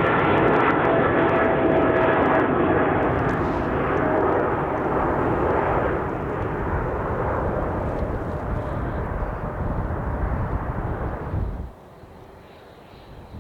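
Jet airliner's engines passing close by: a loud rushing noise with a faint high whine that fades after a few seconds. The sound cuts off abruptly near the end.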